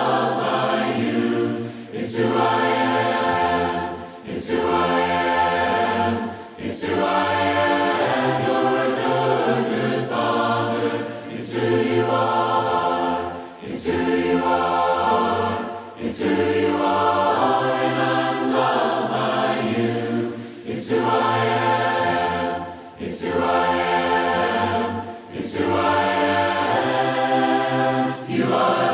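A choir singing a hymn a cappella, several voices in harmony with no instruments, in short phrases separated by brief breaths about every two seconds.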